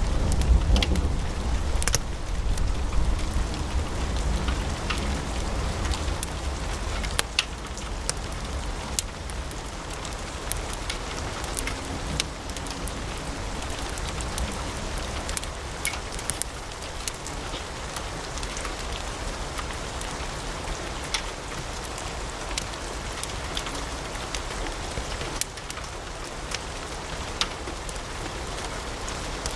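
Wood fire burning in a fireplace, crackling: a steady hiss with frequent sharp pops, and a low rumble that dies down after about seven seconds.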